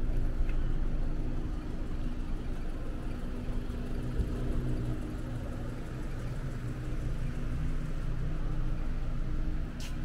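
Street ambience dominated by a steady low hum of a vehicle engine running. There is a short sharp click near the end.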